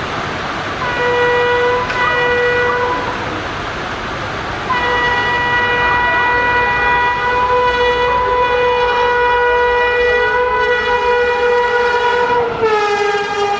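Shatabdi Express locomotive horn sounding two short blasts, then one long blast that drops in pitch near the end as the train passes at full speed. Heavy rain hisses steadily underneath.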